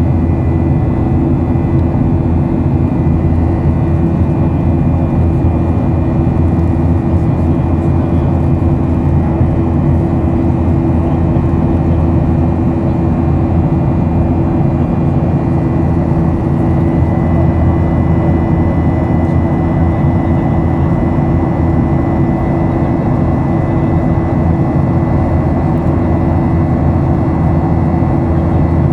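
Boeing 737 jet engines running steadily: a loud, constant drone with a thin steady whine above it.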